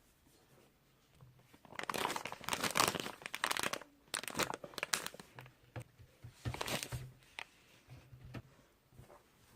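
Crinkling and rustling of something being handled, like a wrapper or bag, in several bursts with quieter ticks between.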